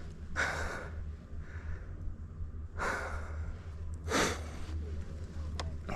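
A mountain biker's heavy breathing while riding a hard section: three loud breaths over a steady low rumble.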